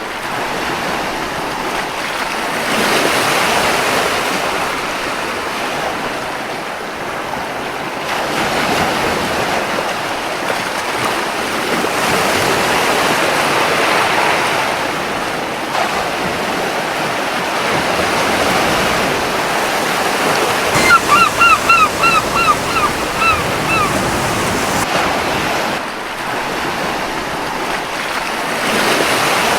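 Surf washing onto a beach, swelling and easing every few seconds. About two-thirds of the way through, a seagull gives a quick run of about eight short cries.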